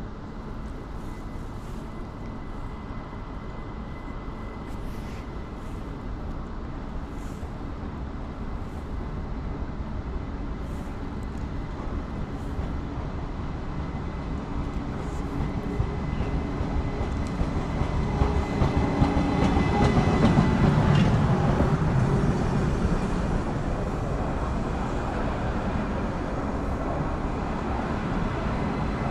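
ÖBB cityjet electric multiple unit pulling into the platform. Its running noise grows steadily louder as it approaches, peaks about twenty seconds in as it draws alongside, then eases off a little as it slows.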